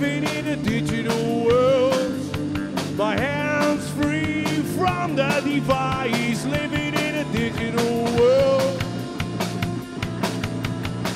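Live rock band playing: drums keeping a steady beat under a bass line and a lead melody of bending, sliding notes.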